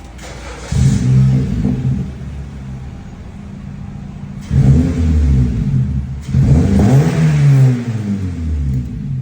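2012 Honda Civic's 1.8-litre four-cylinder engine revved three times through a resonator-delete exhaust with an eBay Fireball muffler, each rev rising in pitch and falling back to a lower idle between them.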